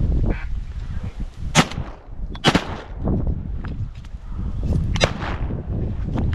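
Three shotgun blasts, about 1.6 s, 2.5 s and 5 s in, fired at passing waterfowl. A waterfowl call sounds just at the start.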